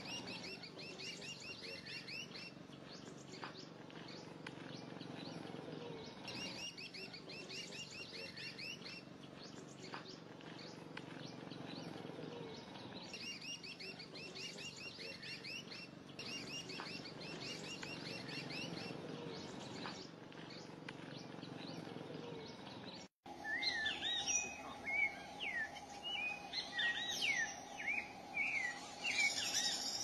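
Birdsong: a phrase of rapid high notes repeated about every three seconds. About 23 seconds in it cuts to a different, louder run of quick rising and falling chirps over a steady hum.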